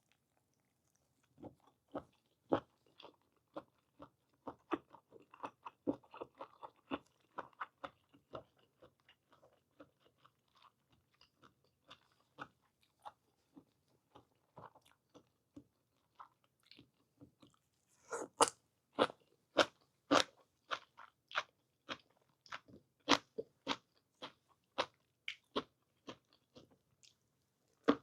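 Close-miked mouth sounds of a person chewing blanched whole squid with green onion: sparse chewing clicks at first, then from about eighteen seconds in a steadier, louder run of chews about twice a second.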